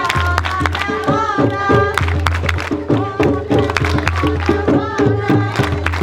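Group singing of a jongo ponto, a call-and-response circle song, over hand drums beating a steady rhythm.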